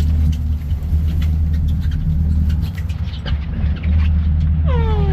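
A boat's engine running steadily with a loud low hum, with scattered light clicks and knocks. Near the end, a single drawn-out call that falls in pitch.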